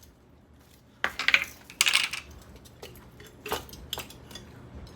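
Metal pieces clattering and clinking against each other in two rattling bursts, about one and two seconds in, followed by a few lighter clinks.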